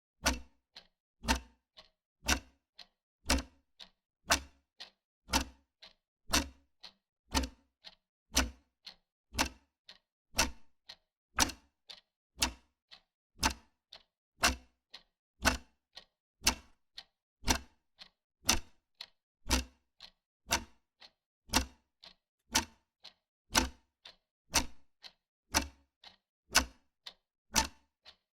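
Wall clock ticking at a steady pace: about two ticks a second, alternating a louder tick with a softer tock.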